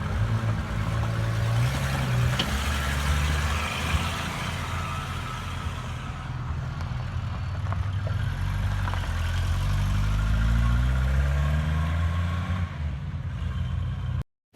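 Car engine running on the move, its pitch stepping up and down and then climbing steadily as the car accelerates from about eight seconds in. The sound cuts off abruptly just before the end.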